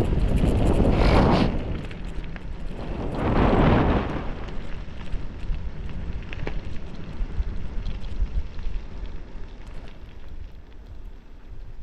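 Wind rushing over the microphone of a bicycle speeding downhill. There are two loud gusts in the first four seconds, then a lower, steadier rumble.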